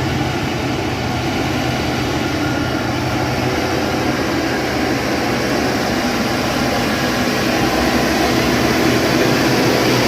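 Heavy diesel vehicle engine running steadily with a low drone, growing a little louder over the last few seconds.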